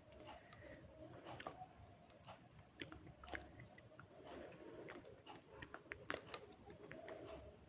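Faint close-up chewing of slate pencil with multani mitti paste: irregular crunches and sharp clicks between the teeth, a few of them a little louder.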